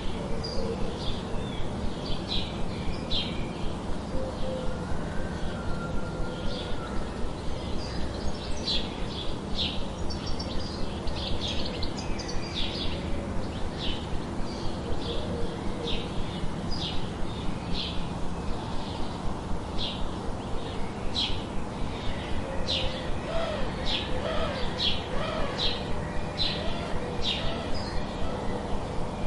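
Birds chirping: short, high chirps repeating about once a second, with a few fainter, lower calls, over a steady background.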